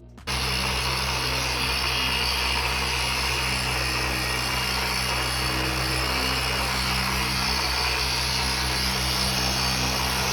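Electric power tool running steadily at constant speed, starting abruptly just after the start and stopping near the end.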